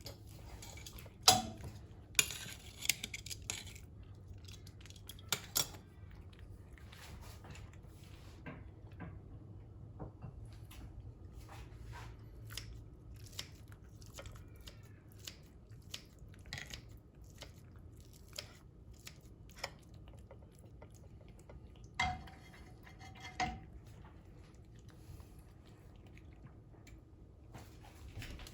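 A cat eating cooked salmon from a dish: a run of small wet chewing clicks, with a few louder knocks of the dish, about a second in, around five seconds in, and twice near the end.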